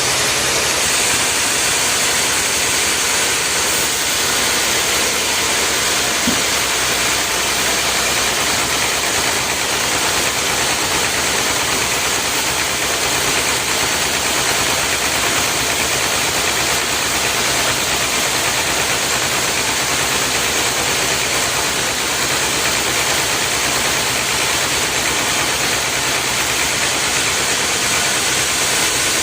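An engine running steadily and loudly, without pauses or changes in speed.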